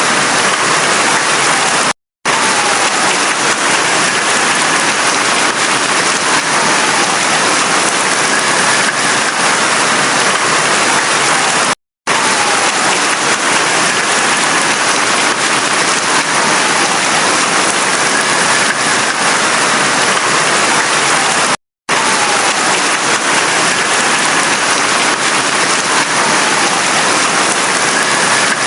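Heavy rain falling steadily, a dense even hiss. The sound drops out to silence for an instant three times, about ten seconds apart.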